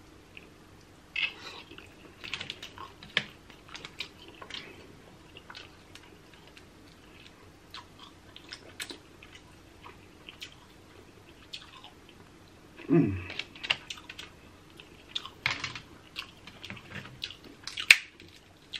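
Close-up eating sounds of crab: scattered clicks, cracks and wet smacks of shell being picked apart and meat chewed. About 13 seconds in comes a short low vocal "mm" that falls in pitch.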